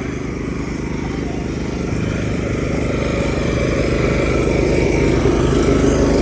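An engine running steadily with a low, even hum, growing gradually louder.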